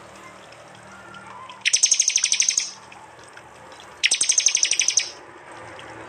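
Prinia (prenjak) giving its rapid 'tembakan' call: two bursts of quick, evenly repeated sharp high notes, about a second each, the first about two seconds in and the second about four seconds in.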